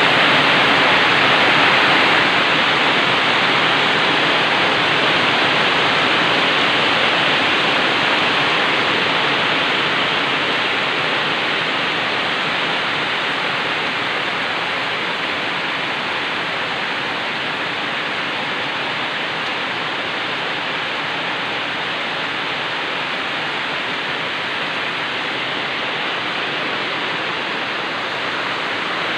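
Very heavy rain pouring down in a steady, dense hiss, easing slightly partway through.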